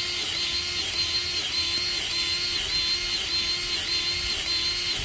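Powered grease gun running, its motor whining steadily with a regular pulse about two to three times a second as it pumps grease into a snow plow's pivot knuckle fitting until grease starts to push out around the knuckle.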